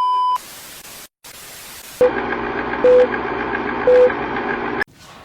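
Electronic intro sound effect: a short steady beep, then a spell of static hiss broken by a brief gap, then louder crackling static with three short beeps, cutting off suddenly near the end.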